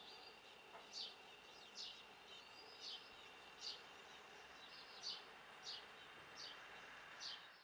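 Faint outdoor ambience with a small bird giving short, high chirps about once a second over a soft steady hiss; the sound cuts off suddenly at the end.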